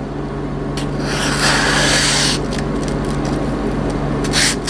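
A freshly sharpened high-carbon chef's knife slicing through catalog paper: one long hissing scrape about a second in and a shorter one near the end, over a steady low hum.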